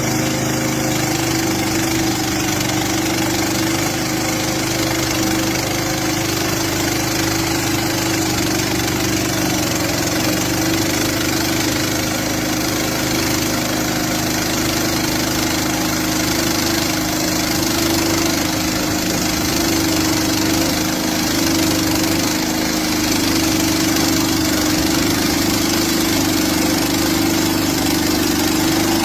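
Lifan gas engine of a portable band sawmill running steadily at a constant speed.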